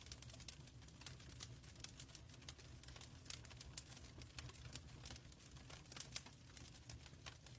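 Wood fire crackling in a fireplace, faint: a dense, irregular run of small sharp pops and snaps over a low steady rumble.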